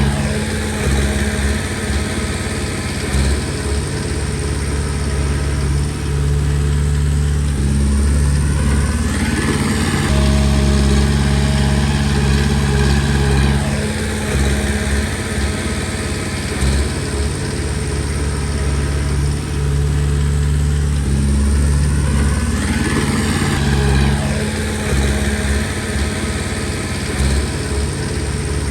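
Komatsu D20P bulldozer's diesel engine running steadily under work. Its note sweeps up and back down twice, about 13 seconds apart.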